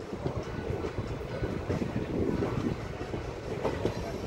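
Passenger train coaches running along the track, heard from aboard beside an open window or door: a steady rumble with irregular clattering knocks of the wheels over the rails.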